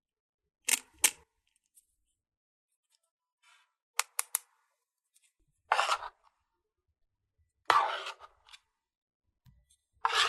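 Handling sounds from unboxing a small plastic toy set: two sharp clicks, a quick run of three lighter clicks about four seconds in, then three short rasping strokes spaced about two seconds apart.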